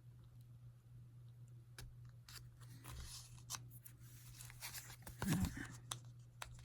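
Paper pieces being handled and pressed onto cards: rustling paper with scattered light taps and clicks, and a soft thump about five seconds in. A steady low hum runs underneath.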